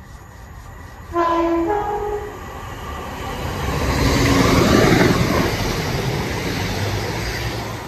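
A passenger train sounds a two-note horn about a second in, a lower note then a higher one, each about half a second long. It then runs through the platform at speed, its wheel and engine rumble building to the loudest point around the middle and easing off towards the end.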